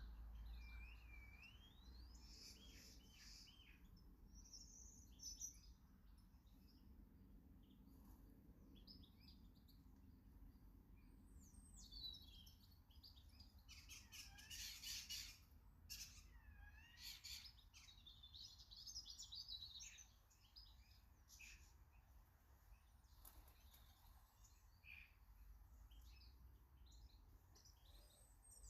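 Faint garden birds chirping and singing, many short rising and falling calls and whistled phrases, with a short burst of sharp clicks about halfway through.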